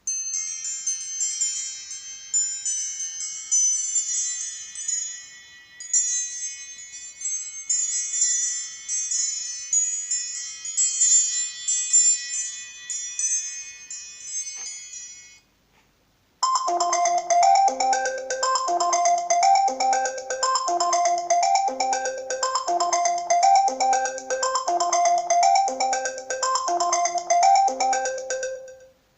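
Two stock iPhone ringtones played one after the other. The first is a high, bell-like chiming melody lasting about fifteen seconds. After a one-second break, the second repeats a short musical phrase over and over.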